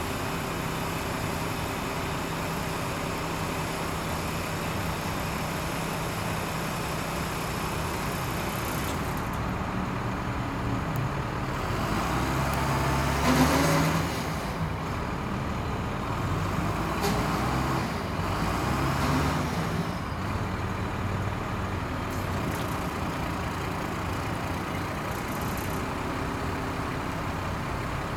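Diesel engine of a 1996 Ford LN7000 truck crane running steadily, speeding up twice in the middle for a few seconds each time before settling back to idle.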